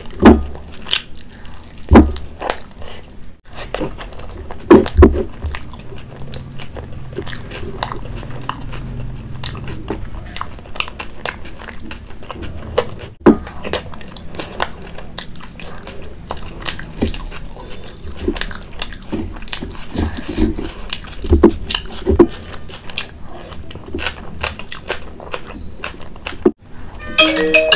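Close-miked eating: a person chewing soft, saucy food with wet lip smacks and mouth clicks, a few much louder smacks standing out.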